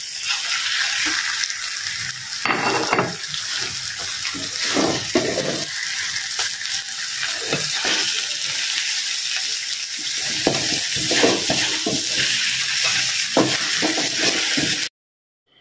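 Sambal sizzling in a metal wok as pieces of crispy fried rohu fish are tipped in and turned with a wooden spatula, with irregular scrapes and knocks against the pan. The sizzle cuts off suddenly near the end.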